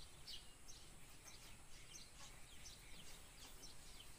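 Near silence with faint birds chirping: short, high, downward-sliding chirps, a few each second, over quiet outdoor ambience.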